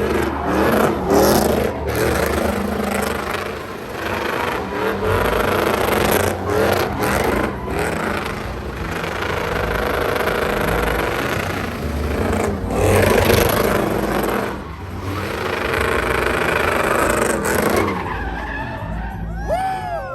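Truck engine revving hard with tyres spinning and squealing in a burnout. Near the end the engine's pitch sweeps up and back down as it revs.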